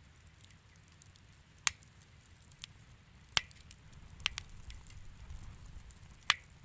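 Fireplace fire crackling, with about four sharp pops standing out over smaller ticks and a steady low rumble.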